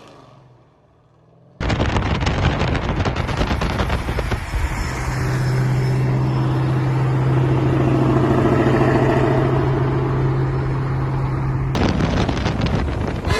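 Boosted Coyote 5.0 V8 Mustang with a loud exhaust, cutting in suddenly about a second and a half in with rapid popping. It then settles into a steady drone at constant engine speed for several seconds, and the rapid popping returns near the end.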